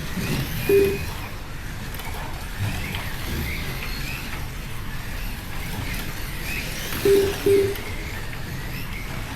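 Slot cars running on the track with a steady whirr of small electric motors and tyres, broken by short low beeps from the lap-timing system: one about a second in and two close together about seven seconds in.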